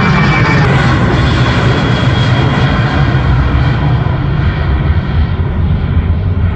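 Jet airliner's engines running loud and steady, a deep rumble under a rushing hiss with a faint whine. The high hiss slowly dulls over the last few seconds.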